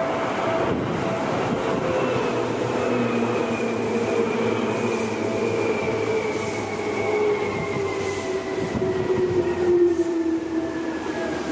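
Seibu 2000 series electric train running past close by: wheel and track rumble with a motor whine that falls slowly and steadily in pitch, and a couple of sharp knocks about a second in and near the end.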